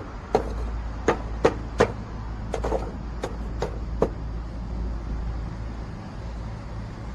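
A series of about ten sharp, irregular knocks in the first four seconds, over a steady low rumble.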